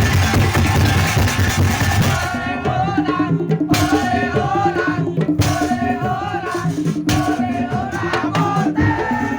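Madurese tong-tong parade ensemble playing live: a dense wash of drums and wooden percussion, which thins about two seconds in to a wavering melody line over pitched percussion notes.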